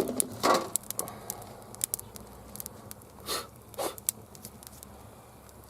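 Wood campfire crackling with irregular sharp pops, and three short rustles: near the start and twice around the middle.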